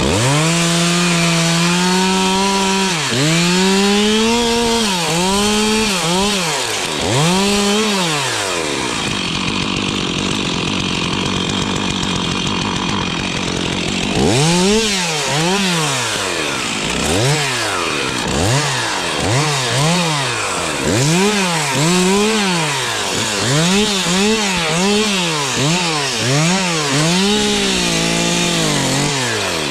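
Stihl chainsaw working dead spruce. Its engine revs up at the start and holds, then rises and falls several times. It runs lower for about six seconds in the middle, then revs up and drops back about once a second until near the end.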